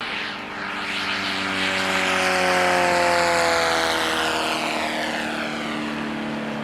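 Radio-controlled model aeroplane flying past, its engine note swelling to a peak about three seconds in and then fading as the pitch slides steadily down.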